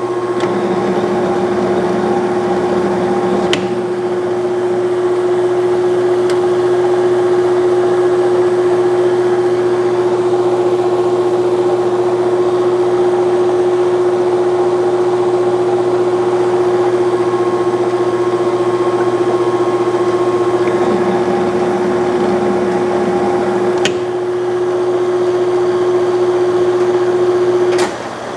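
Clausing Colchester 1340 metal lathe running at low speed with the power feed engaged during a single-point threading pass: a steady hum with one clear tone. It cuts off shortly before the end, with a click as the machine is stopped.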